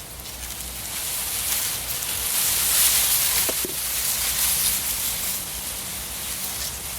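Wind rustling through a stand of reeds: a soft, airy hiss that swells to its loudest about three seconds in and then eases off.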